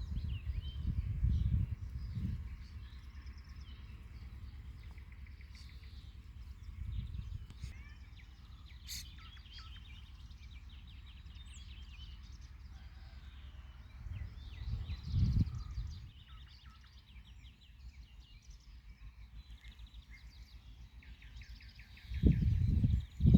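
Several small birds singing and chirping, short trills and calls overlapping, over a faint steady murmur of spring water. Low rumbles come and go, loudest near the start, around the middle and just before the end.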